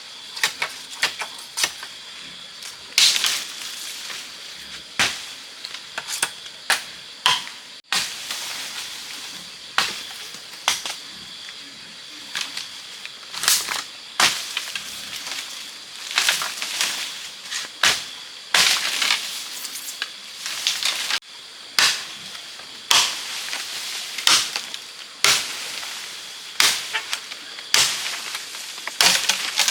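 Bamboo being chopped with a blade: sharp strikes at an irregular pace, roughly one every one to two seconds.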